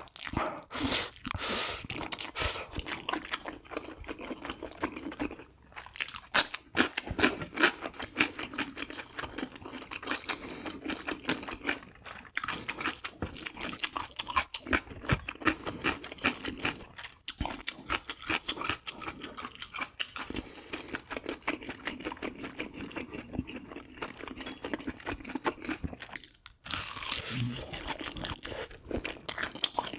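Close-miked chewing and crunching of food, a dense run of rapid wet and crisp mouth clicks with a few short pauses.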